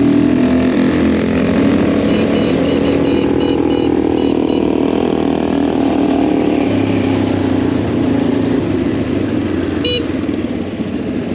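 Adventure motorcycle engine running under way, its note shifting as the bike changes speed. A run of short high-pitched beeps sounds about two seconds in.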